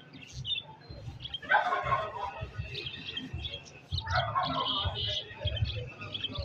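Flock of budgerigars chirping and chattering, a busy twittering with louder bursts about a second and a half in and again around four seconds.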